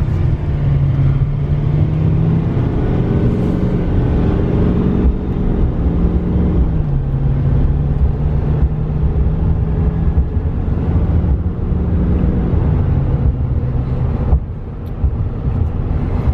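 Cabin sound of a 2015 GMC Sierra 3500HD Denali pickup on the move: a steady engine drone over road noise. About seven seconds in, the engine note drops to a lower pitch.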